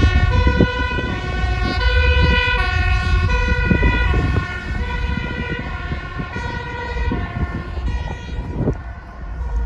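Two-tone emergency vehicle siren alternating between a high and a low note about every two-thirds of a second, growing fainter after about four and a half seconds, over a low rumble.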